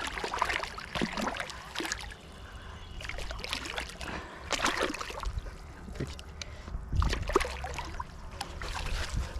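A large hooked fish splashing and thrashing at the water's surface in irregular bursts as it is drawn in close to be grabbed by hand.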